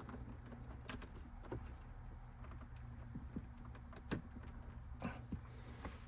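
A few faint, scattered clicks and rattles of plastic wiring-harness connectors being worked loose by hand from the back of a Uconnect radio unit.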